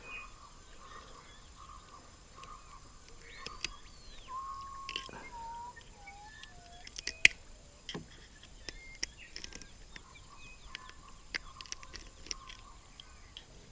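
Wild birds calling: a short whistle that rises and falls, then a run of whistled notes stepping down in pitch, over a faint steady pulsing drone. Scattered sharp clicks and knocks sound throughout, the loudest about seven seconds in.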